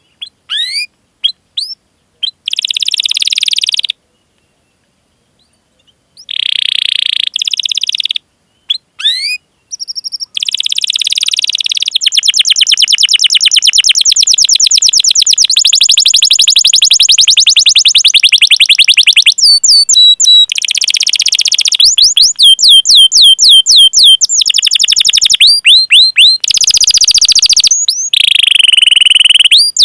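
Domestic canary singing: sharp rising "cuit cuit" call notes, buzzy phrases and long, very fast rolling trills. There is a pause of about two seconds near the start.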